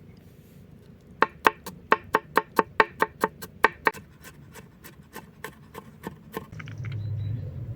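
Knife chopping food on a wooden board: a quick run of sharp chops, about five a second, then slower, fainter ones. Near the end comes a low rubbing rumble.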